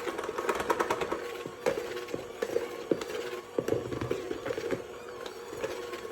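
Electric mixer running with a steady motor hum while mixing bread dough, with irregular knocks and clatters throughout.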